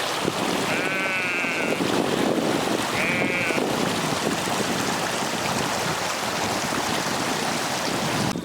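Sheep bleating twice, quavering calls, the first about a second long and the second shorter about three seconds in, over a steady rushing noise of storm wind and rain.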